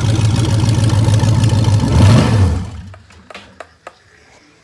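Junkyard aluminum-block 5.3-litre V8 idling, then given a quick blip of throttle about two seconds in; it dies instead of revving and cuts out. This is the fault of an engine that idles but stalls when revved. A few faint clicks follow the shutdown.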